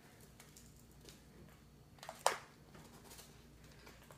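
Quiet room tone broken by a single sharp click or knock a little over two seconds in.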